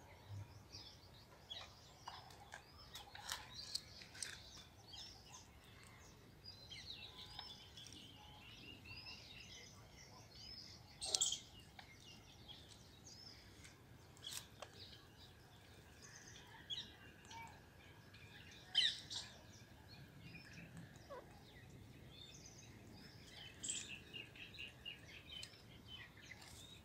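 Birds chirping and twittering in short high calls, with two louder, sharper calls, one about halfway through and one about two-thirds of the way through.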